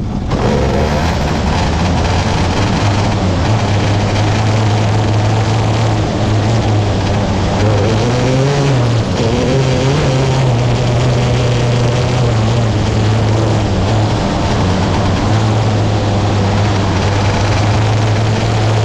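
Dirt-track race car engine running hard and steady, its pitch dipping briefly and climbing back about eight to nine seconds in.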